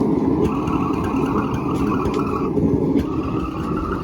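A forge burner running with a steady roar.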